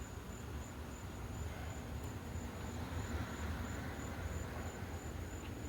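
A cricket chirping steadily, a high pulsing chirp of about three a second, over a low background rumble.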